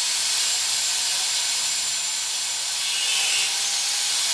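A power tool cutting through material with a steady, high-pitched hissing noise, part of cutting out a disc.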